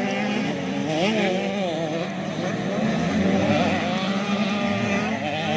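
Several 85cc two-stroke motocross bikes racing, their engines revving up and down over one another.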